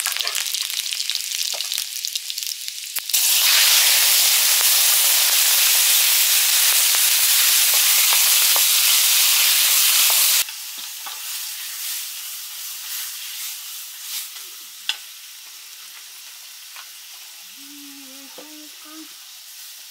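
Food frying: crackling at first, then a loud steady sizzle from about three seconds in that cuts off suddenly around ten seconds. Quieter sizzling follows, with scattered clicks of stirring.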